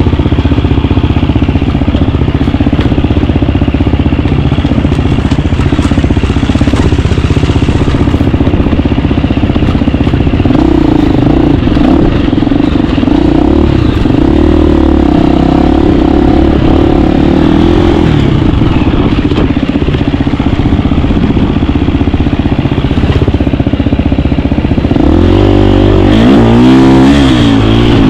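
KTM 350 dirt bike's four-stroke single-cylinder engine running under way, its pitch rising and falling with the throttle, with quick revs up and down near the end.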